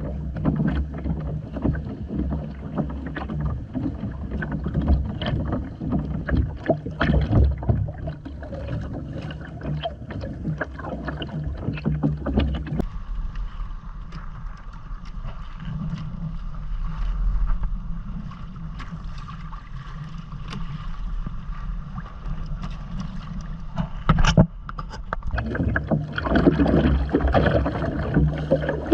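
Water sloshing and splashing against the hull of a Hobie Island sailing kayak under way, over a low steady hum. The splashing eases off midway and picks up again near the end.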